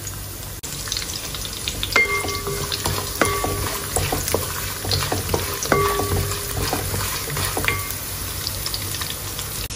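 Coconut pieces, curry leaves and fennel seeds sizzling and crackling in hot coconut oil in an aluminium pan. A wooden spatula stirs and scrapes through them, and about four times it knocks the pan with a short ring.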